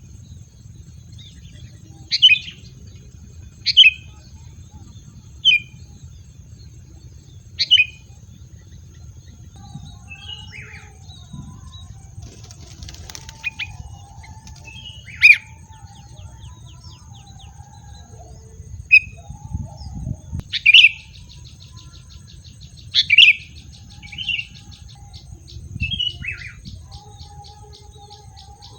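A wild bird giving short, sharp calls that sweep down in pitch, repeated about ten times at uneven intervals of one to three seconds, with softer chattering notes between them. A steady high-pitched tone runs underneath.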